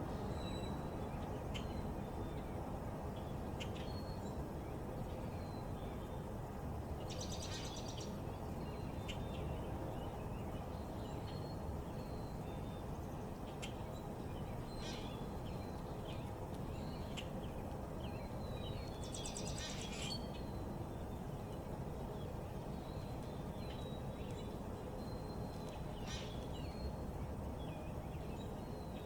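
Backyard songbirds chirping and calling over a steady low background hum. Three louder, rapid buzzy trills stand out, about a quarter of the way in, past the middle, and near the end.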